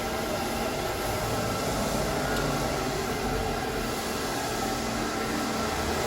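Ride-on wet floor scrubber running: a steady mechanical hum and whir from its motors, with no change in level.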